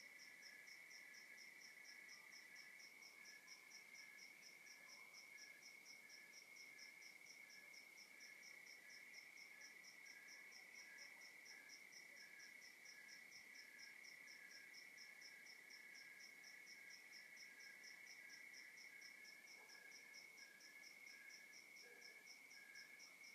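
A night chorus of crickets, faint. One keeps up a continuous trill while others chirp in steady, evenly spaced pulses, several a second.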